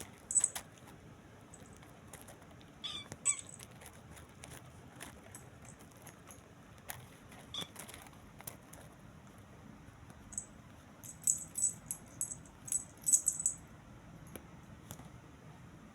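Kittens giving a couple of short, faint mews, amid light metallic jingling and clicks that come thickest in a cluster about two-thirds of the way through.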